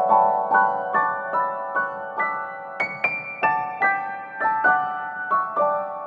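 Background piano music: a simple melody of single struck notes, about two a second, each note ringing and fading, with the highest note a little under halfway through.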